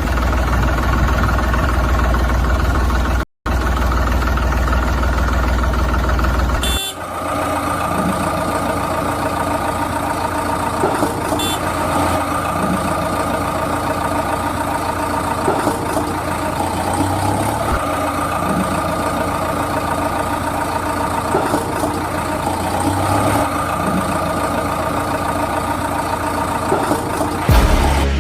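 Vehicle engine running steadily: a deep rumble that cuts out for an instant, then changes about seven seconds in to a lighter, steady engine hum.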